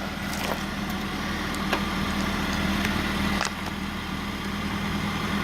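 Motor vehicle engine idling steadily just after being started, with a few faint clicks over it.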